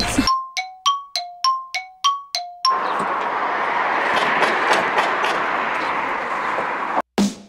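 A two-note chime rings about eight times, alternating a higher and a lower note roughly three times a second, each note dying away. A steady hiss follows for about four seconds and stops abruptly.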